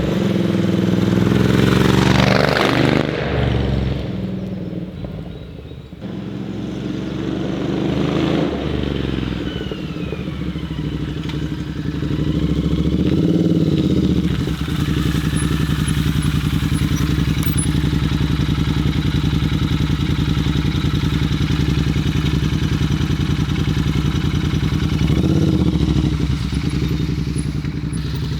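Royal Enfield Interceptor 650's parallel-twin engine through a Zard exhaust under way. It revs up in the first few seconds, drops off about five seconds in, and pulls up again twice before settling into a steady cruise for the second half.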